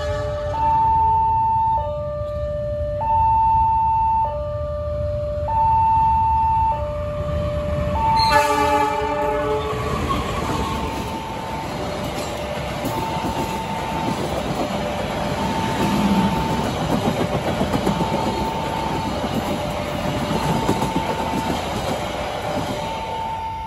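A level-crossing warning alarm sounds in alternating high and low tones, each held about a second. About eight seconds in, the locomotive horn sounds briefly. Then the passenger train rolls past with steady wheel and rail noise, and the alarm continues underneath.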